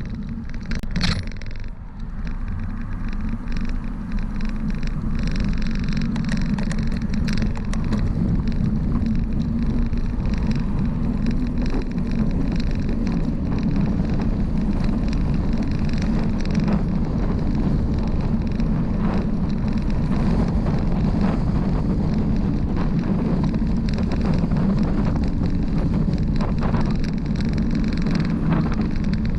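Steady rushing and rumbling of a bicycle ride on the road: wind on the microphone and tyres rolling on pavement, with small clicks and rattles throughout.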